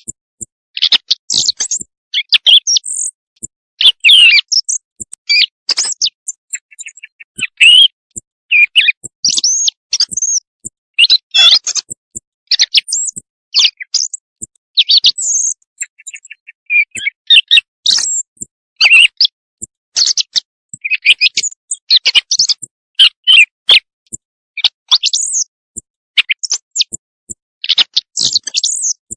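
Recorded songbird song used as a hunting lure call: a continuous, varied string of short high chirps, whistled notes and quick trills, each phrase lasting well under a second, with brief pauses between phrases.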